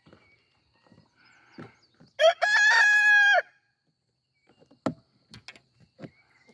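A rooster crowing once, a single crow of just over a second starting about two seconds in. A few short sharp knocks follow near the end.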